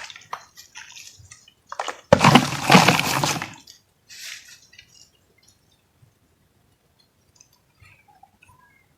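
Clumps of dry cement-like material being crushed and crumbled by hand: a few small crackles, then one loud crunch lasting about a second and a half, and a shorter, softer crumble about four seconds in.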